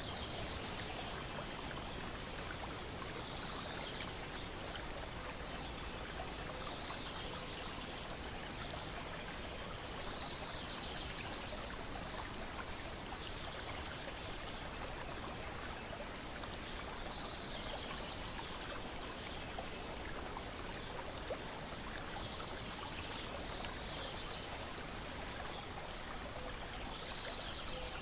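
Lake water lapping and trickling steadily against a shore and a wooden deck, with soft splashes every couple of seconds.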